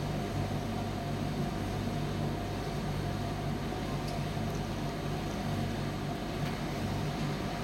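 Commercial Primus tumble dryer running: a steady low hum with an even rushing noise over it.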